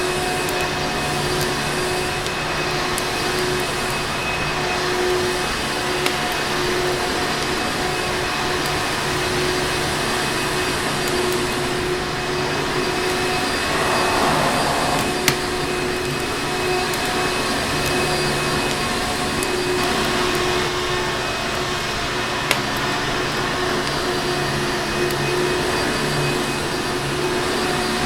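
Vacuum cleaner motor running steadily, a full rushing noise with a constant whine. A few sharp clicks stand out over it, the loudest about halfway through.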